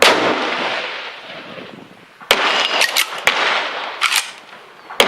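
Two rifle shots from a Winchester 1895 Russian musket in 7.62x54R, one at the start and one near the end, each a sharp crack with a long echoing tail. A handful of sharp clacks sound between them, from about two to four seconds in.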